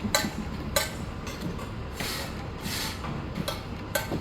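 Sharp metallic clinks with a short ring, three times (near the start, just under a second in, and about four seconds in), over a steady low mechanical rumble from job-site machinery; a hissing swell of noise rises and falls about two seconds in.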